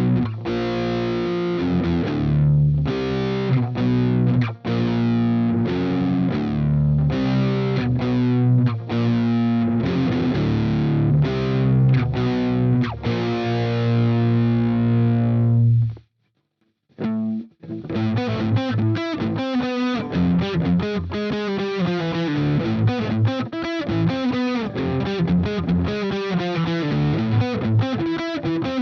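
Electric guitar, a Harley Benton Telecaster-type kit guitar, played through distortion. Held, ringing chords for about the first sixteen seconds, a stop of about a second, then a faster riff of short, choppy strokes.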